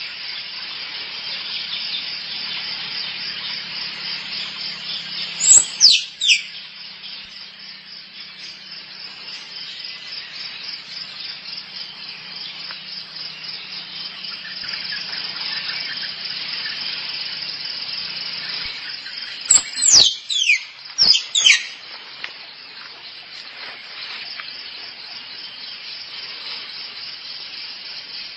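Squirrel calls: a pair of sharp, high squeals falling steeply in pitch about six seconds in, then a quick run of three or four more about twenty seconds in. Behind them runs a steady high chirring of insects.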